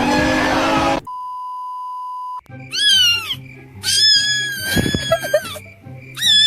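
Noisy sound cuts off about a second in. A steady electronic beep follows for about a second and a half. Then come drawn-out cat meows, a short one and then a long held one, over a quiet beat of background music.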